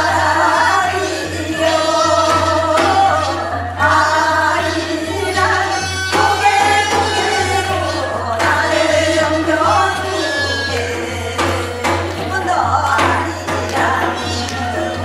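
Gyeonggi folk singers performing a hwimori japga, with wavering, held sung notes and scattered percussion strokes. A steady low hum runs underneath.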